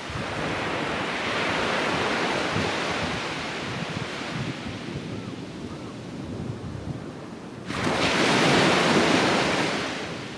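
Ocean surf breaking and washing on a sandy beach, with wind on the microphone. The surf swells sharply about eight seconds in to its loudest, then falls away.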